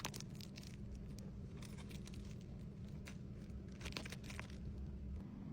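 Faint crinkling and scattered small clicks of plastic-wrapped accessories being handled during order packing, over a low steady hum.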